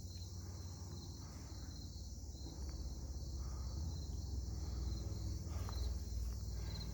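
Steady chorus of insects: a continuous high trill with a faint chirp repeating a few times a second, over a low rumble.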